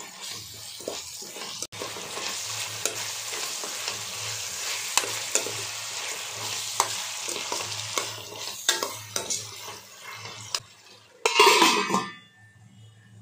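Onions and tomatoes sizzling as they fry in oil in a stainless-steel pan, with a spatula stirring and scraping against the pan in many sharp clicks. Near the end a louder metallic clatter as a steel lid goes onto the pan, after which the sound drops.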